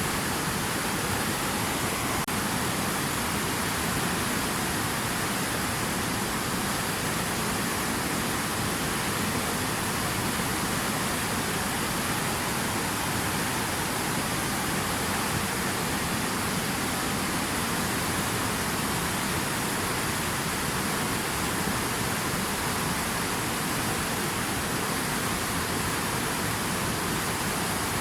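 Steady rushing of water, an even hiss and roar that does not change.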